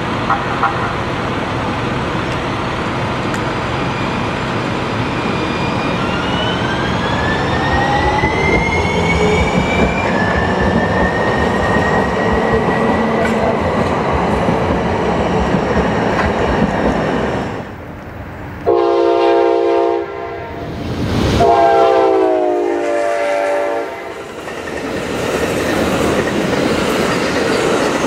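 A San Diego Trolley light-rail train rolls past on street track, its electric motors whining upward in pitch as it gathers speed. After that, a passing Amtrak train's multi-chime air horn sounds two blasts, the second sliding down in pitch as the train goes by, followed by the rumble of the train rolling past.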